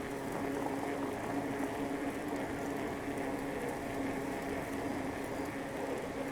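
A bicycle rolling along a paved path: steady tyre and drivetrain noise with a constant hum running under it.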